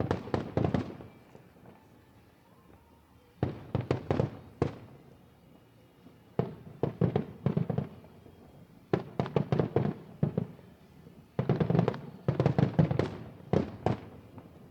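Aerial fireworks bursting overhead in volleys: clusters of rapid booms and cracks every few seconds, with short lulls between them.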